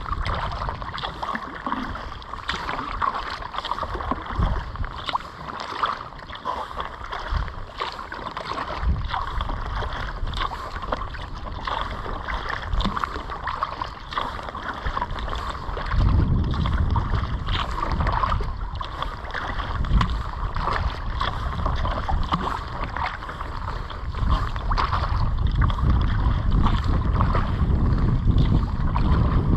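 Kayak paddling: irregular paddle strokes with water splashing and dripping against a steady watery hiss. Wind rumbles on the microphone, louder from about halfway.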